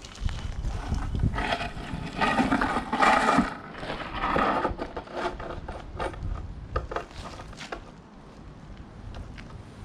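Scraping and knocking of a stone paving slab being handled and shifted into place, with a louder stretch of scraping from about one and a half to four and a half seconds in, then scattered knocks and clicks.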